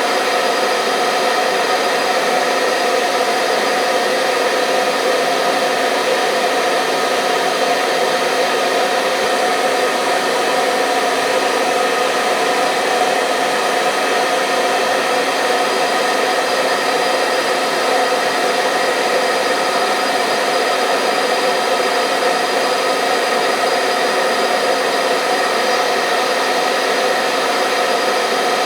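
Hair dryer running steadily, a constant whooshing rush of air with a motor hum.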